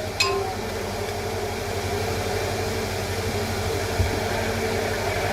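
A steady mechanical hum, with one short knock about four seconds in.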